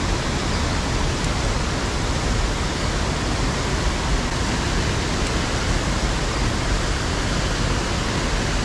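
Steady, unbroken rush of water pouring over a spillway into a pool.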